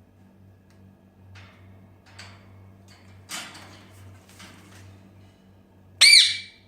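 African grey parrot giving one loud, short squawk near the end, its pitch rising and then falling, after a few soft brief rustles.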